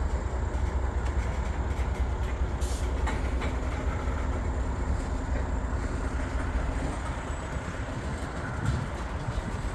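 Long Norfolk Southern mixed freight train's cars rolling slowly past on the rails, a steady low rumble with a few light clanks about three seconds in.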